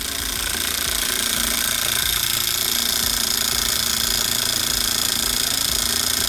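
A 12 V 775 DC motor running at full speed, driving an XL timing belt and crank that push a rod rapidly up and down in its guide, a scroll-saw-style reciprocating action. It is a loud, steady mechanical whir and rattle with a high whine, building up over the first second.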